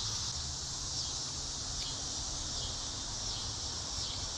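A steady insect chorus, an even high buzz like crickets, over a low rumble.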